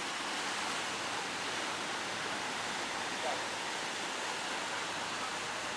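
Steady rushing noise of ocean surf breaking.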